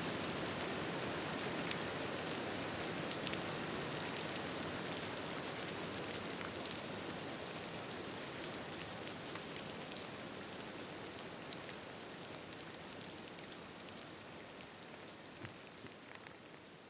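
Steady rain pattering on a surface, with scattered small sharp ticks, gradually fading out.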